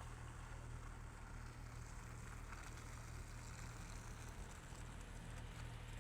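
A car driving, heard as a steady low rumble with an even hiss of road noise over it.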